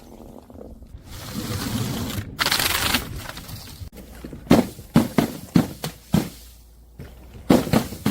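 Objects being crushed: a stretch of crunching and crackling, then a run of sharp cracking impacts about halfway through and another cluster near the end.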